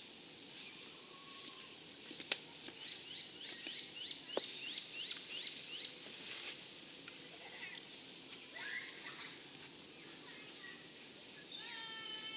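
A bird calling: a quick rising chirp repeated about four times a second for a few seconds, with scattered shorter calls around it. A single sharp click comes just before the chirping, and a louder, fuller animal call is heard near the end.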